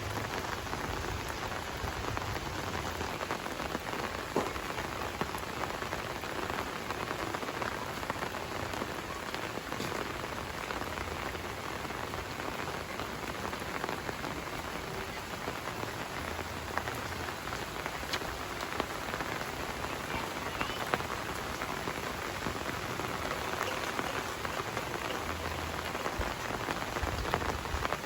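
Steady rain falling, an even hiss with scattered individual drops ticking sharply over it.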